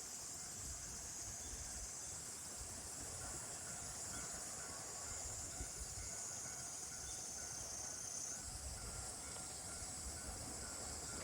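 Insects chirring steadily in a high, continuous drone, with a faint low rumble underneath.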